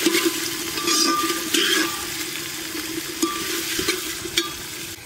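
Whole spices and green leaves sizzling in hot oil in a metal pot while a metal spoon stirs them, with scattered sharp clicks and brief rings of spoon on pot. The sizzle is loudest at first and eases off over the last few seconds.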